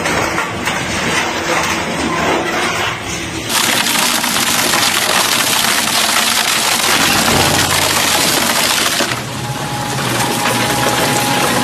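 Crushing machine grinding and breaking up material: a loud, dense crunching and crackling that gets sharply louder about three and a half seconds in and eases off a little around nine seconds.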